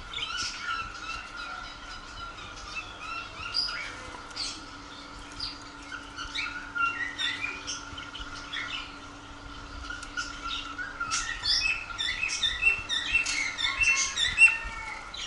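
Many small caged birds chirping and calling over one another, a dense shop chorus that grows busiest in the last few seconds. A faint steady hum runs underneath.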